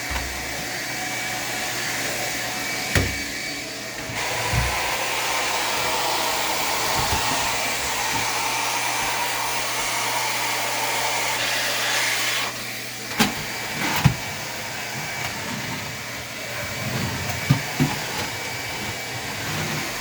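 Vacumaid central vacuum drawing air through a hose and floor tool on a bare floor: a steady rush of air. The airflow sound shifts about four seconds in and again around twelve seconds. Several knocks from the tool bumping along the floor are heard.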